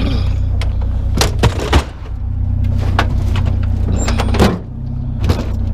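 Knocks and clatter of scrap items being shoved and wedged into a loaded vehicle, about seven sharp hits, over a vehicle engine idling steadily.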